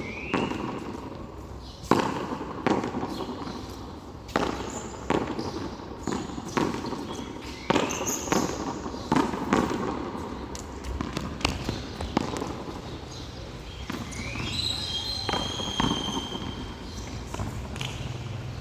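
Frontón a mano rally: sharp slaps of the ball struck by hand and smacking the wall, about one every second, with a couple of short rising squeaks.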